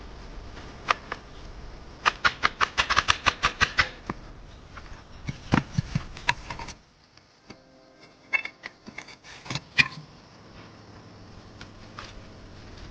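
A fast run of sharp clicks or knocks, about six a second, then scattered single clicks over a steady background hiss that drops away suddenly midway.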